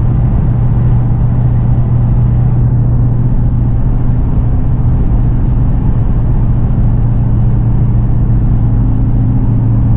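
2018 Dodge Challenger R/T Scat Pack's 6.4-litre Hemi V8 exhaust heard from inside the cabin at a steady cruise: a steady low hum with road noise, no revving. The factory mufflers have been replaced with 2.75-inch straight pipes and the resonators kept, so it is only a bit louder than stock, with no drone.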